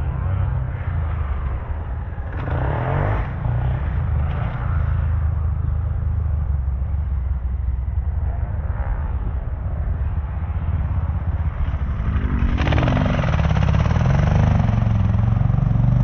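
Dirt bike engines running at a motocross track, revving in surges, with a louder stretch as a bike gets closer about three-quarters of the way through.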